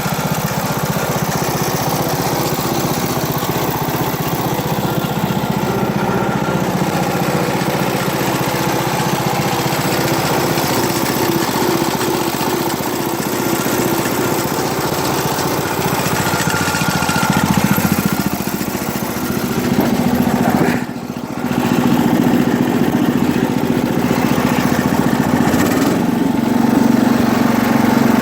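1973 International Harvester Cub Cadet 86 garden tractor's single-cylinder Kohler engine running steadily under way. The sound dips briefly about three quarters of the way through, then comes back a little louder near the end.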